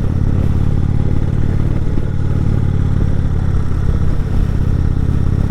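Indian Chieftain motorcycle's V-twin engine running steadily at an even, low pitch as the bike rides uphill.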